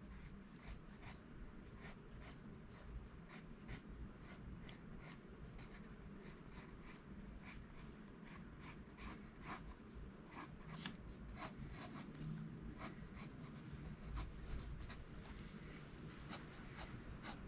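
Pencil scratching on paper in many short, quick strokes as a drawing is sketched; faint.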